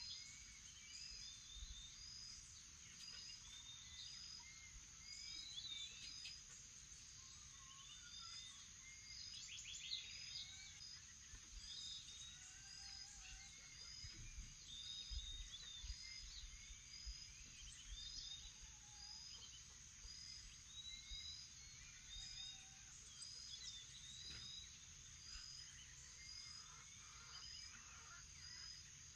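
Morning chorus of many birds calling and singing, over a steady high-pitched insect drone, with a short high note repeated about once a second. Faint overall.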